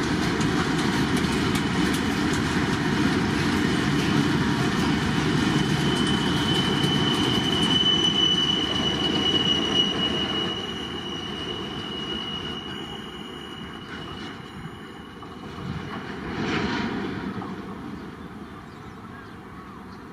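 A train running past on the rails with a steady rumble of wheels and a high-pitched wheel squeal. It fades away after about ten seconds, with a short swell near the end.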